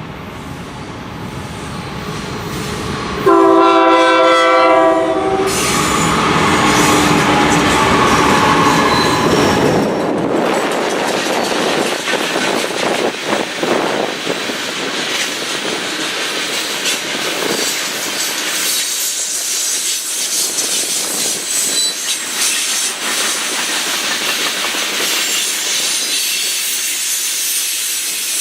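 Norfolk Southern train passing close by: the diesel locomotives rumble in as it approaches, and about three seconds in comes a horn blast of about two seconds. After that the locomotive rumble fades and the cars roll past with a steady rattle and clickety-clack of wheels on the rails.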